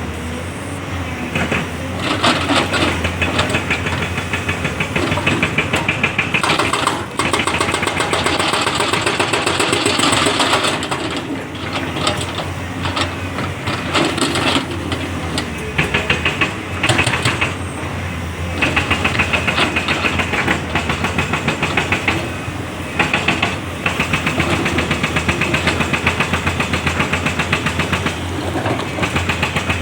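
Heavy diesel engine of an earth-moving machine running with a fast, even clatter, its sound swelling and easing every few seconds as the load changes.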